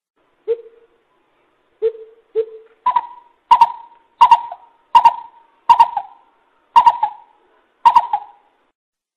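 Greater coucal calling: three deep hoots in the first few seconds, then a run of higher, sharper notes about every 0.7 s, some of them doubled.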